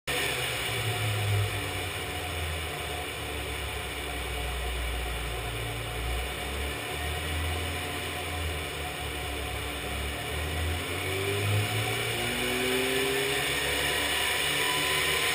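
Classic Mini's four-cylinder engine running on a rolling-road dyno, turning the rollers at low revs at first, then revving up in a rising pull from about eleven seconds in.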